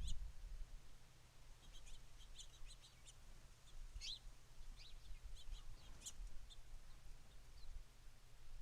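Small songbirds chirping: scattered short, high chirps, busiest in the middle, over a low steady rumble.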